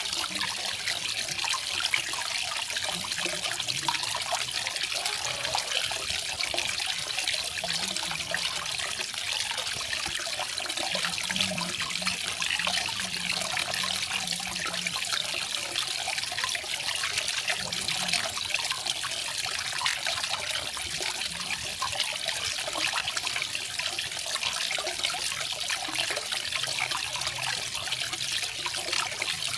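Small garden waterfall: water falling and trickling steadily, a continuous splashing hiss strongest in the upper range.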